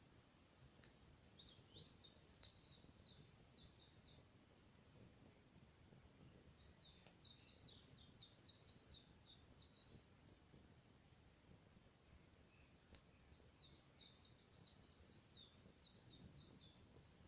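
A small songbird sings three quick twittering phrases of rapid, falling high notes, faint over a low outdoor rumble. Two sharp pops come in the gaps between phrases, likely from the burning fire.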